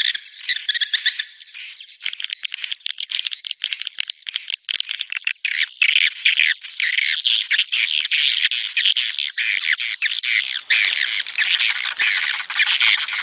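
Edible-nest swiftlets calling, as on a swiftlet-farm lure track of mating and breeding calls. Dense, rapid twittering and chittering runs under a short, clear whistled note that repeats about two to three times a second.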